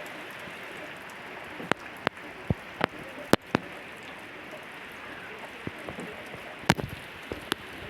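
Steady rainfall hissing, with louder single drops striking close by at irregular moments, a cluster of them in the first half.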